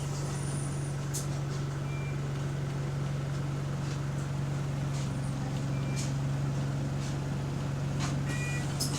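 Bus engine and drivetrain running steadily, heard from inside the passenger cabin as a constant low drone, with scattered rattles and clicks. A few short electronic beeps sound near the end.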